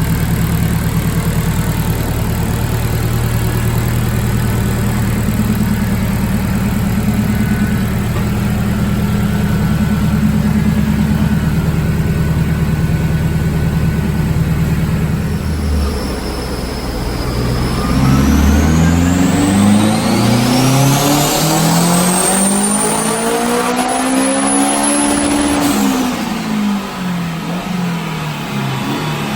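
Turbocharged Honda K20 engine with a GT30 turbo runs steadily at low revs for about fifteen seconds, then climbs in pitch over several seconds to a peak with a high whine rising alongside, and drops back down near the end.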